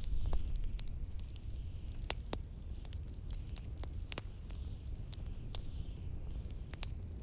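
Wood fire crackling with irregular sharp pops, over a steady low rumble of blizzard wind.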